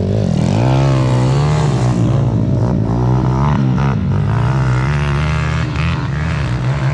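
Small mini-bike engines running, one revving up and down over and over while a steady engine note hums underneath.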